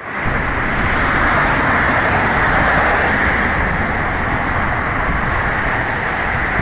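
Steady road noise of a moving car: an even rumble and hiss of tyres and engine, unchanging throughout.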